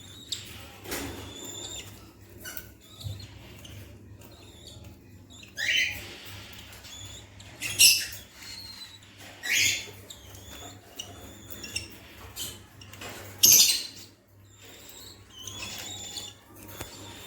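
Budgerigars chirping and squeaking, with short high calls throughout and a few louder rising squawks about 6, 8, 10 and 13 seconds in.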